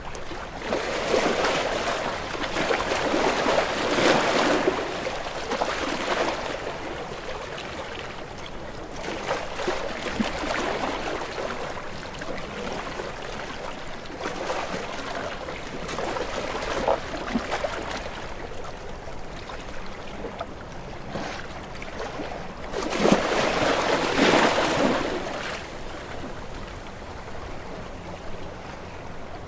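Sea waves washing in and drawing back, as a rising and falling hiss of water. Two bigger surges, one near the start and one about three-quarters through, with smaller washes between.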